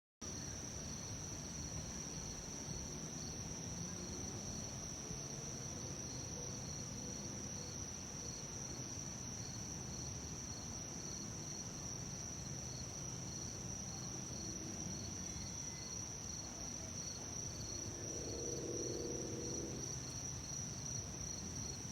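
Insects trilling steadily in a high, unbroken tone, over the low rumble of a Boeing 767 jetliner on approach, which swells a little near the end.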